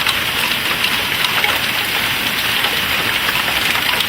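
Hailstorm pelting down: a dense, steady clatter of countless hailstones striking hard surfaces, with many small sharp hits standing out.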